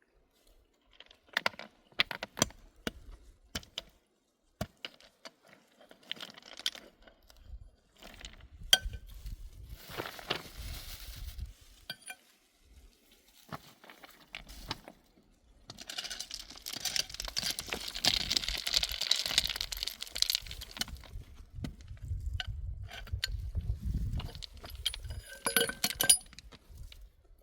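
Scattered clinks, knocks and rustling of small objects being handled, with about five seconds of steady hissing noise past the middle and some low rumble.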